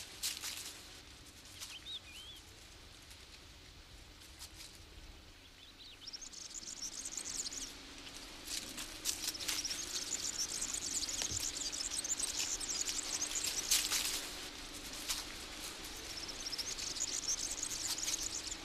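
Quiet countryside ambience with small birds chirping. High-pitched rapid chirping comes in about six seconds in and runs on in quick trills, with a few scattered clicks.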